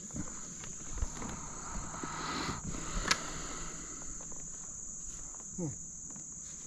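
A steady high-pitched insect chorus, with a few faint clicks and knocks.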